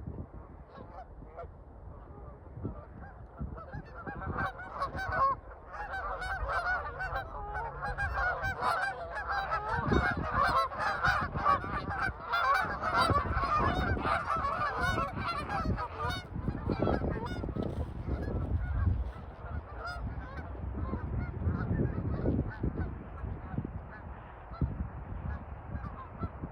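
A flock of migrating geese honking, many calls overlapping. The chorus swells about four seconds in, is densest through the middle, then thins out toward the end.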